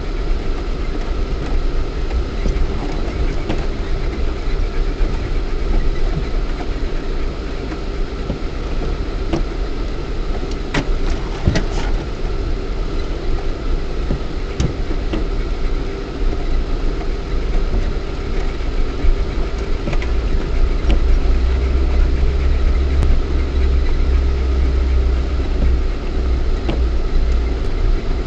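Lada Niva 1.7i's four-cylinder petrol engine running steadily, heard from inside the cabin, with a deep low rumble that grows heavier about two-thirds of the way through. A few sharp knocks sound about twelve seconds in.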